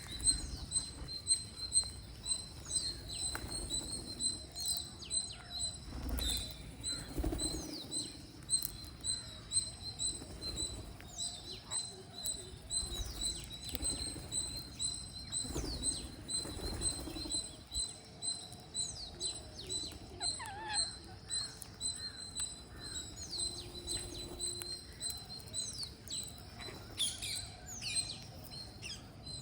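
Green parrots chirping, with many short, quick, falling calls scattered throughout, over a steady fast high-pitched ticking. Occasional soft low thumps come from the birds moving at the food.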